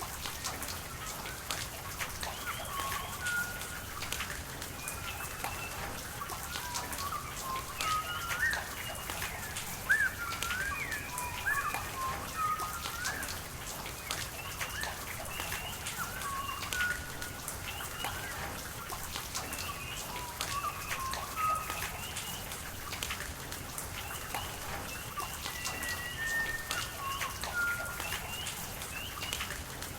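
Rain falling, with a steady wash of water noise and scattered raindrop ticks. Through it, birds call again and again in short whistled chirps and slides.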